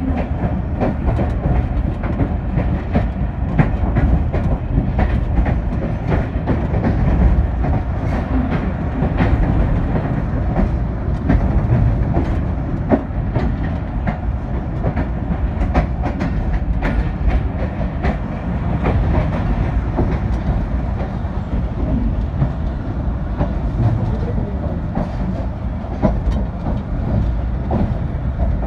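Passenger train coach running along the track, heard from inside the carriage: a steady low rumble with frequent sharp clicks from the wheels on the rails.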